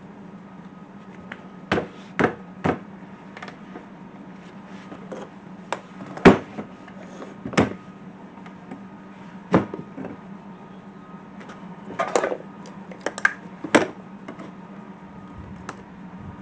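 Irregular sharp knocks and clicks of aftermarket air intake parts being handled while the gasket is worked into place. There are about a dozen of them, the loudest about six seconds in and a cluster near twelve to fourteen seconds, over a steady low hum.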